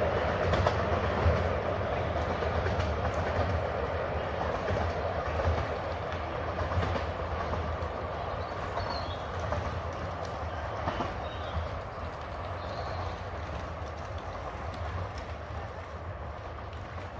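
Coaches of a 10¼-inch gauge miniature steam railway train rolling along the track with a clickety-clack over the rail joints, fading steadily as the train draws away.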